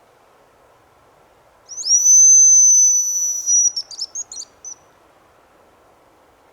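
Hazel grouse decoy whistle blown close by: one long, high, thin whistle held steady for about two seconds, then a quick broken run of short notes, imitating the hazel grouse's song to call birds in.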